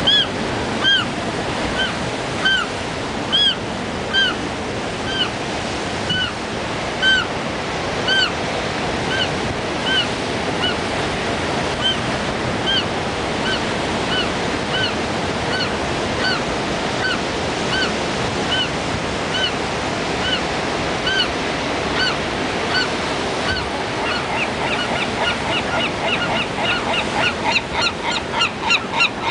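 Gulls squabbling, one calling over and over in short rising-and-falling cries about once or twice a second, over the steady wash of surf. Near the end the cries speed up into a rapid run.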